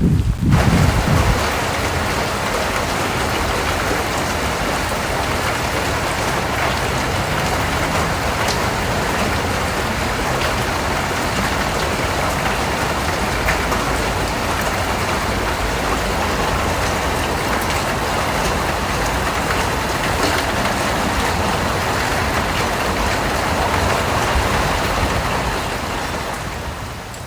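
Rain falling steadily, a dense even patter of drops, with a brief low rumble in the first second; it eases off somewhat near the end.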